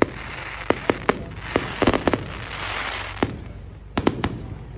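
Fireworks going off: irregular sharp bangs and pops, some in quick clusters, with a hissing crackle in the middle.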